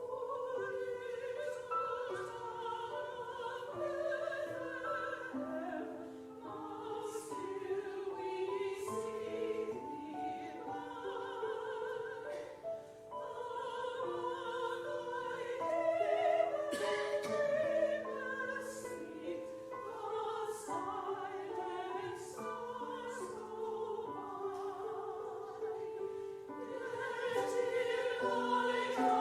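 Church chancel choir singing a Christmas choral piece, sustained notes moving in several parts.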